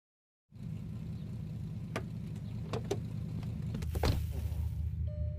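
Car engine idling with a steady low hum that cuts in about half a second in, with a few sharp clicks in the middle and a louder click and swish about four seconds in, where the engine note gets fuller.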